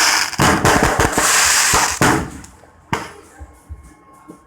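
Fireworks going off: a rapid string of crackling bangs for about two seconds, then a single sharp bang just under three seconds in and a few fainter pops.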